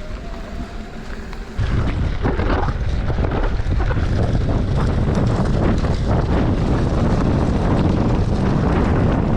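Wind rushing over the camera microphone on a moving mountain bike, jumping suddenly louder about a second and a half in and staying loud, mixed with rattling bike and trail noise.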